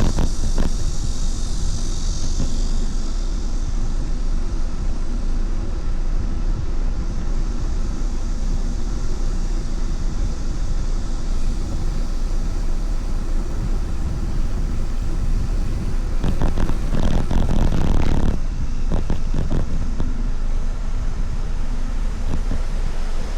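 Steady wind rumble and road noise on the microphone during a ride, growing louder for a couple of seconds about two-thirds of the way through.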